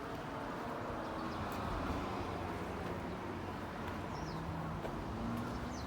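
Park ambience: a steady low background hum, with a few short, high bird chirps over it.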